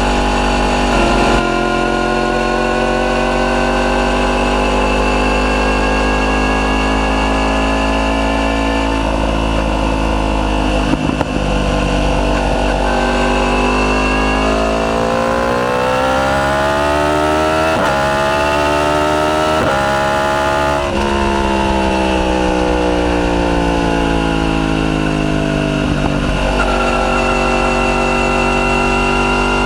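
Yamaha YZF-R1's crossplane inline-four running through a decatted Akrapovic full titanium exhaust while riding. The engine note holds fairly steady with a brief dip about eleven seconds in, then the revs climb for several seconds under acceleration, drop abruptly, and fall away gradually before settling steady near the end.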